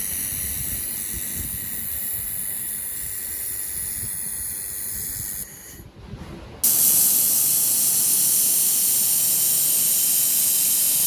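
Handheld laser welding machine running with a steady hiss and several high, even whine tones. The sound cuts out sharply about five and a half seconds in, then resumes louder and brighter about a second later.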